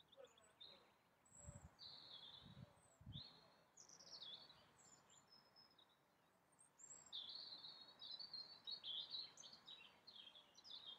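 Faint outdoor birdsong: short high chirps and trills from several small birds, busier in the second half. A few soft low thuds in the first few seconds.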